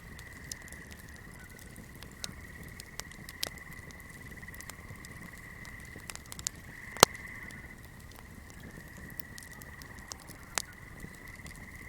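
Swamp night ambience: a steady, high, continuous chorus of calling creatures, with irregular sharp crackles and pops from a fire, one louder pop about seven seconds in.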